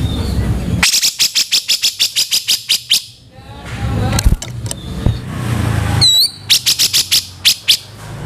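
Grey-cheeked bulbul (cucak jenggot) calling in rough, harsh notes: a fast string of about seven sharp notes a second for two seconds. After a short pause comes a single curved whistle, then a second fast string.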